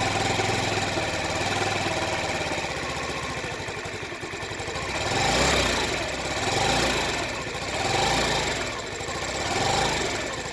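Honda Ruckus 49cc four-stroke single-cylinder engine running rough, steady at first, then surging up and down about every second and a half without throttle input. The hunting idle was traced to a gummed-up carburettor.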